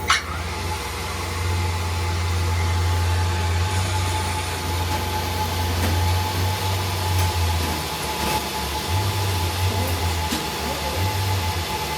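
A machine motor or engine running steadily, with a low hum and a thin steady higher tone; the low hum weakens and comes and goes after about eight seconds.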